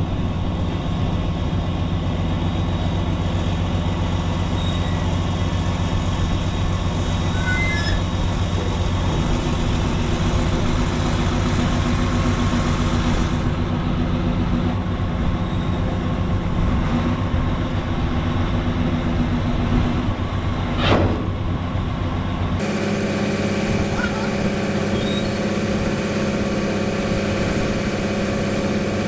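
Cotton picker's diesel engine running steadily at idle, with one short sharp sound about three-quarters of the way through. Just after it the engine sound changes suddenly to a different steady tone.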